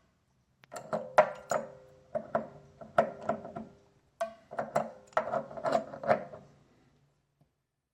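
Metal tools and plumbing fittings clinking and knocking: a run of sharp strikes, some left briefly ringing, with a short pause about four seconds in.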